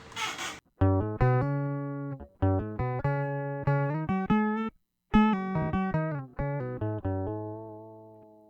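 Electric guitar played through a Boss OC-5 octave pedal set to octave lower: a riff of single plucked notes in two phrases with a short gap between them, the last note left to ring and fade.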